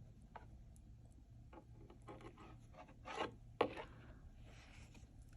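Faint handling noise of a picture book: soft clicks and short rubbing scrapes of paper pages, with a couple of louder scrapes about three seconds in, as a page is turned.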